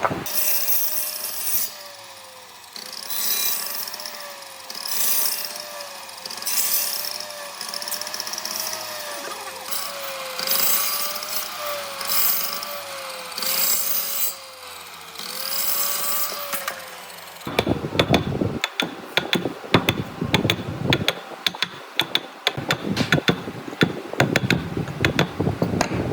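Power tool working wood in repeated passes: its motor pitch dips under load and recovers about every second and a half, with a hiss of cutting or abrading on each pass. About two-thirds of the way in it gives way to rapid, irregular clicking and knocking.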